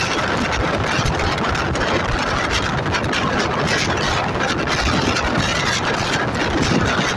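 Cheran Superfast Express running along the track: a steady, loud rumble and rush of running noise with no let-up.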